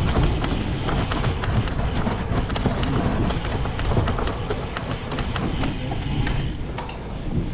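A cyclocross bike rattling and clattering over rough ground, with rushing noise on the microphone and many short clicks throughout.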